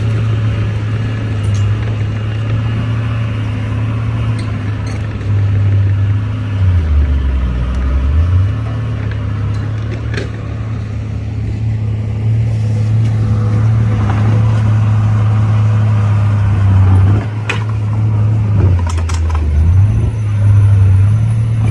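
Heavy diesel engine of earthmoving machinery running loud and steady, its pitch sagging twice for a second or two, about a third of the way in and again near the end, as it comes under load during the mud recovery.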